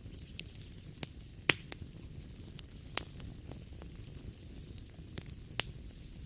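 Wood fire crackling in a fireplace: sharp, irregular pops and snaps over a low, steady rumble and hiss, the loudest pop about a second and a half in.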